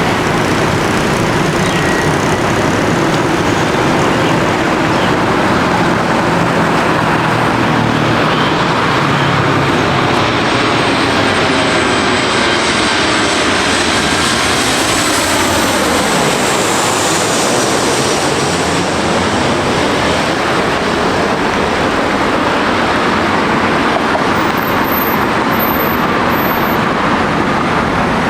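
Boeing 737-800's CFM56 jet engines running loud and steady, with the pitch sweeping down about halfway through as the jet passes close by.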